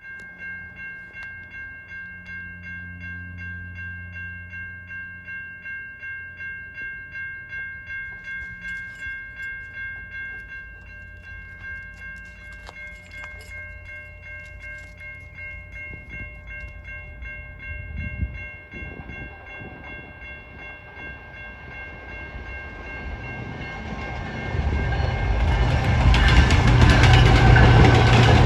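Railroad crossing bell ringing steadily, about two strokes a second. An Alaska Railroad train led by an EMD GP40-2 diesel locomotive then approaches and passes over the crossing, growing loud from about 24 seconds in.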